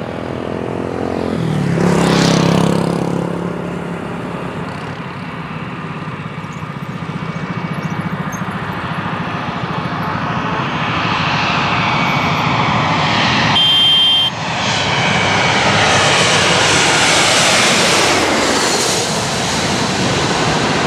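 Airbus A321 jet passing low overhead on landing approach. Its engine noise peaks about two seconds in and drops in pitch as it passes. A second, longer swell of jet noise builds from about ten seconds in.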